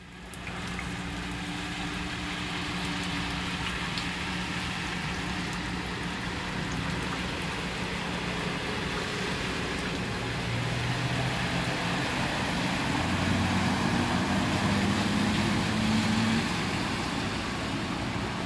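A motor vehicle's engine running at a steady hum over a constant rushing noise, with the engine louder for a few seconds in the second half.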